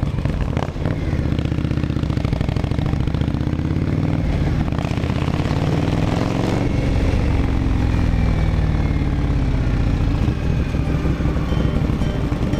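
Indian Scout V-twin motorcycle engine running on the road, its engine speed rising and then falling off around the middle.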